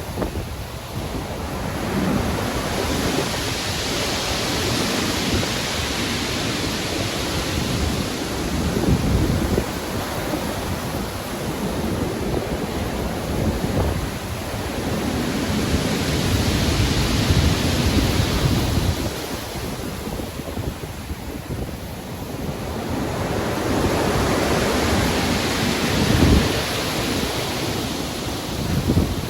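Stormy sea: waves breaking and washing in, swelling and fading about every ten seconds, over a steady wind and a low rumbling surf.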